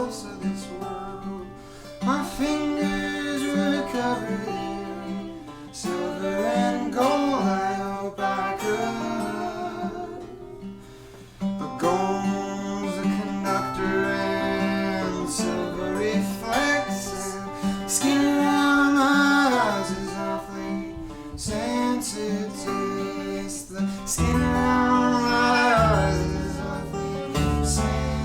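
Live acoustic band music: acoustic guitar under a lead melody that slides between notes in long phrases. A bass comes in strongly about 24 seconds in.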